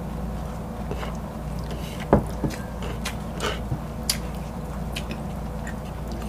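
Close-miked eating sounds: chewing and small wet mouth clicks, with a sharper click about two seconds in. A steady low hum runs underneath.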